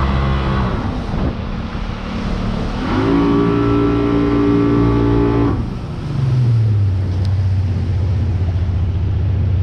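Jet boat engine running, throttled up about three seconds in, held, then eased back just before six seconds to a lower steady hum.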